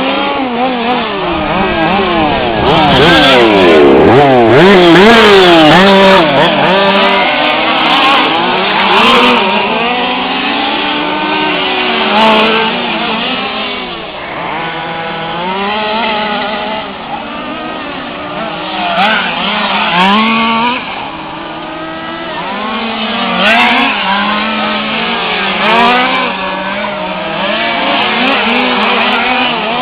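Several 1/5-scale radio-controlled cars' small two-stroke petrol engines racing, each revving up and down so their pitches sweep and cross, loudest about three to six seconds in, with a few sharp ticks.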